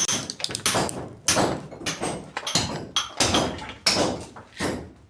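A run of sharp knocks or blows, about two a second with uneven spacing, each with a short ringing tail.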